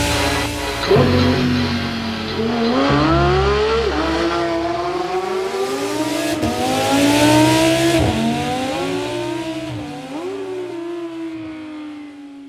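Sports car engine accelerating hard on a race track, its pitch climbing and dropping back again and again as it shifts up through several gears, then fading away near the end.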